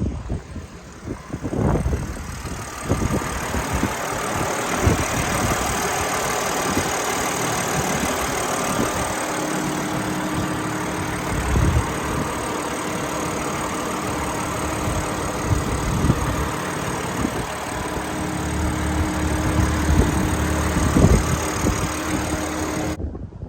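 BMW M4 Competition's twin-turbo inline-six engine idling steadily, with a low even hum that settles in about nine seconds in.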